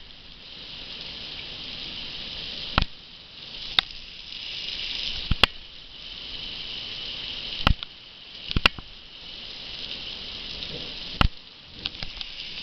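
Heavy rain falling in a thunderstorm: a steady hiss that swells and eases, broken by about six sharp clicks close by.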